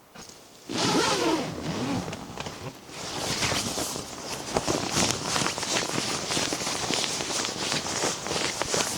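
A zipper pulled open with a quick zip starting about a second in, then steady crunching and rustling, like steps and handling in snow.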